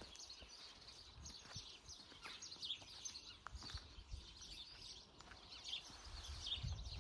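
Small birds chirping, short high chirps repeating every second or so, with faint low thumps underneath.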